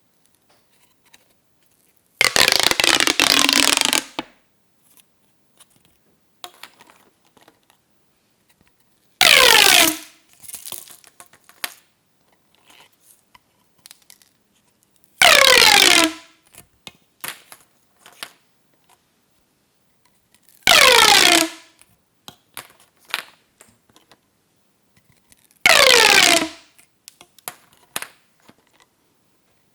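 Plastic pop tubes being pulled out, five times. Each pull is a short burst of ridges popping, falling in pitch. The first pull is longer, about two seconds. Light handling clicks come between the pulls.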